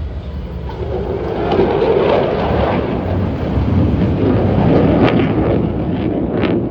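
F-16 jet engine roar from a flyby, building from about a second in and loudest midway, with a crackling edge over a deep rumble.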